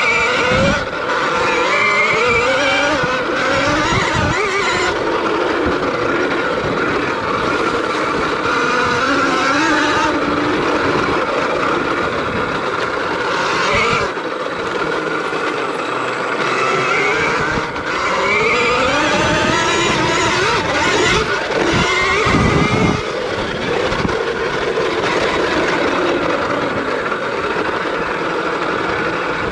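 KTM Freeride electric dirt bike being ridden, its electric motor whining and rising and falling in pitch as the rider speeds up and slows down, over a steady rushing noise.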